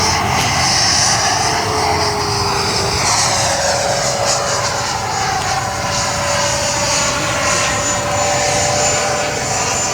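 Electric ducted fan of a radio-controlled model jet in flight: a steady high whine over a lower tone. The pitch steps up about three seconds in and then holds.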